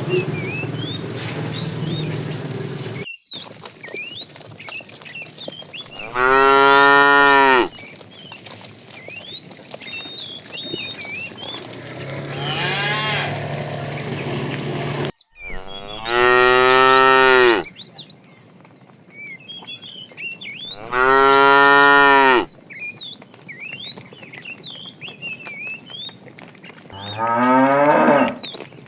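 Cattle mooing: four loud, drawn-out moos of about a second and a half each, the last one rising in pitch, with quieter, lower lowing in between.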